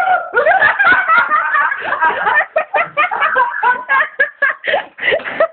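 A person laughing hard in quick, high-pitched bursts of giggling.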